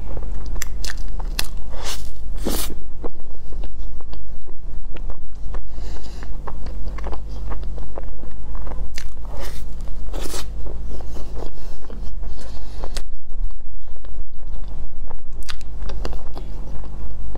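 Close-miked eating: bites and chewing of a soft matcha crepe with cream filling, with many sharp wet mouth clicks and smacks, over a steady low hum.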